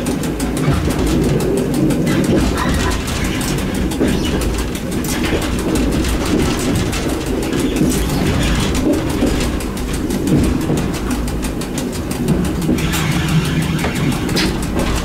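EN57 electric multiple unit running: a loud, steady low mechanical rumble with a fast, even pulse.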